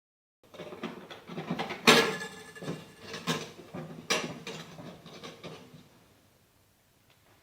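Knocks, clicks and rattles of hands forcing a replacement thermostat into a mini fridge's housing, with the loudest knock about two seconds in; the handling noise dies away near the end.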